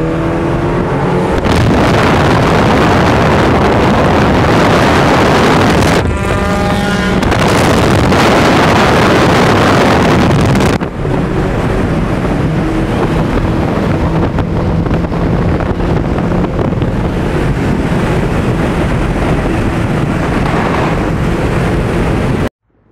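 Car engine revving hard under acceleration, heard inside the cabin under heavy wind and road noise. The pitch climbs near the start and again about six seconds in, and the noise dips briefly twice, about six and eleven seconds in. Everything cuts off suddenly just before the end.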